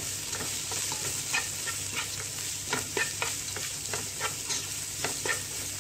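Shredded carrot and onion sizzling in hot oil over a high flame, with a spatula scraping and tapping against the pan as the vegetables are stirred.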